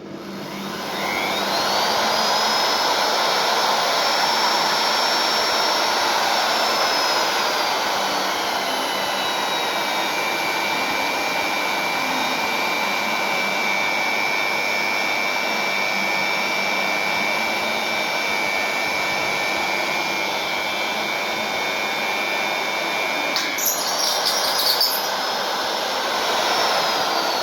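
Magnetic drill's electric motor spinning up to a high whine, its pitch dropping and holding lower for about fifteen seconds as the bit cuts into the steel. Near the end there is a brief rattle, the pitch rises again as the load comes off, and the motor winds down.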